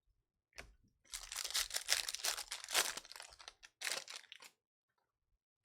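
Crinkling and tearing of 2020 Bowman Jumbo trading-card pack wrappers as a pack is ripped open. The rustle starts about half a second in, is densest for the next couple of seconds, and ends with a last rustle around four seconds in.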